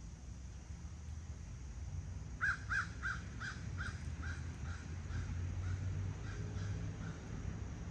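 A bird giving a quick series of about a dozen harsh, evenly spaced calls, loudest at first and fading away over a few seconds, over a steady low background rumble.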